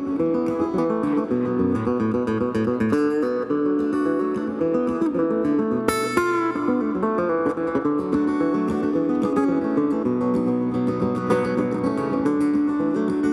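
Live acoustic string-band music: a fast, rapidly picked mandolin solo over guitar accompaniment, with a sharp accented stroke about halfway through.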